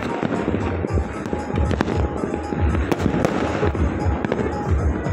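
Fireworks going off in quick succession, many sharp bangs and crackles, over loud music with a pounding bass beat.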